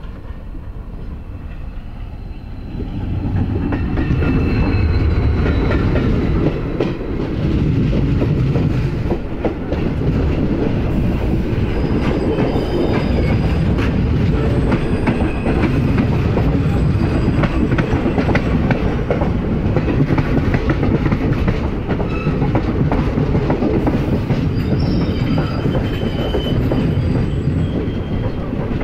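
Indian Railways passenger coaches passing close on the next track, heard from a moving train: a loud rumble with rapid clickety-clack of wheels over the rail joints and occasional faint high-pitched wheel squeals. It swells about three seconds in as the other train draws level.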